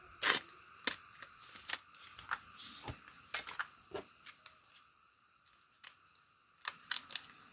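Trading cards being handled: a scattered series of light clicks, taps and rustles as cards are flipped through and set down, with a quieter stretch past the middle.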